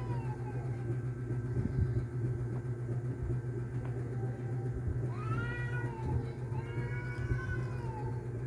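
A cat meowing: a call trailing off at the start, then two drawn-out meows about five and six and a half seconds in, over a steady low hum.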